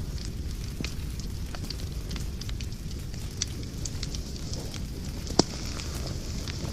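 Wood fire burning in a fireplace, crackling steadily over a low rumble of flame, with scattered sharp pops; one pop about five and a half seconds in is much louder than the rest.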